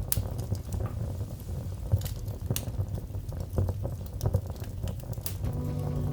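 Wood fire crackling, with irregular sharp pops and snaps over a low steady rumble. Soft music comes back in near the end.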